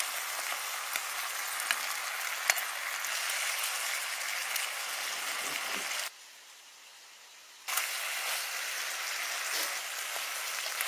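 Chicken frying in an oily chili-garlic sauce in a pan, a steady sizzle with a few sharp clicks of the wooden spatula against the pan. The sizzle drops away for about a second and a half just past the middle, then returns.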